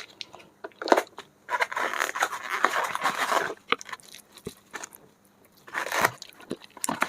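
Close-miked food and utensil handling: a sharp click about a second in, then a couple of seconds of scraping, rustling noise, scattered small clicks, and another short rustle near the end.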